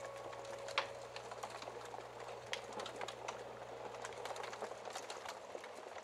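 Wood fire crackling, with irregular sharp pops and snaps over a soft hiss. A bell-like ringing note dies away in the first second.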